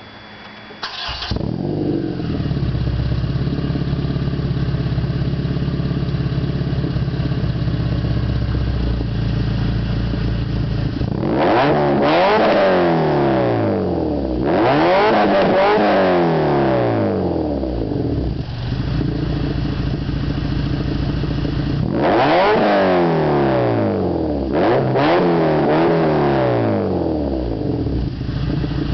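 Honda Civic Si (EP3) engine through a Skunk2 MegaPower R 70mm cat-back exhaust, with an OBX race header and no catalytic converter: it starts about a second in and idles steadily. It is then revved four times, each rev rising and falling back to idle.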